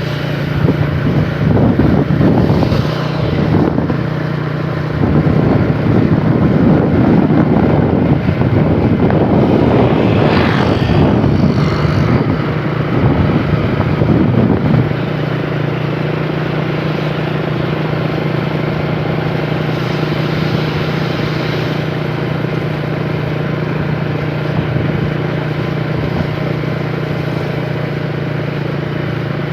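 An engine running steadily with a constant low hum, rougher and louder for the first fifteen seconds or so, then settling to an even drone.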